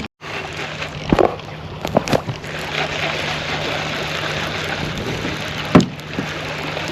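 Wind and water noise on an open fishing boat, with a steady low hum underneath and a few sharp knocks, the loudest near the end.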